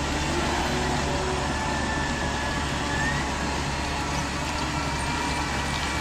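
Radio-controlled construction vehicles running, a steady engine-like drone with faint motor whine that rises briefly about three seconds in.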